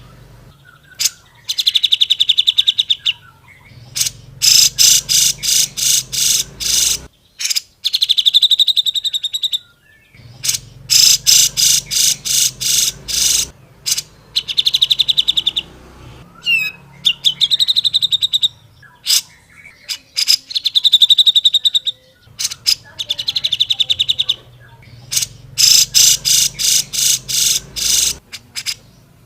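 Cucak jenggot (grey-cheeked bulbul) in loud, rapid song: fast chattering trills in phrases of one to three seconds with short pauses between them, repeated over and over.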